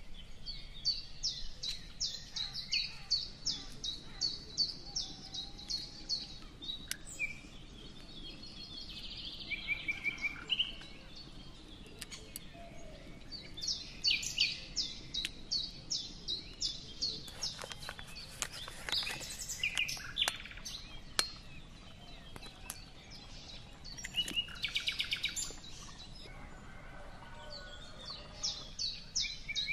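Small birds chirping: quick runs of high, evenly spaced chirps and short trills that come again every few seconds. A cluster of faint sharp clicks about two-thirds through.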